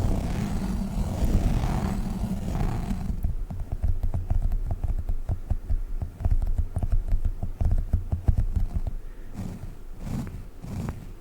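Sticky gel Globbles toys handled close to the microphone: a muffled squishing rub at first, then fast, soft sticky tapping from about three seconds in, slowing into looser squishes near the end.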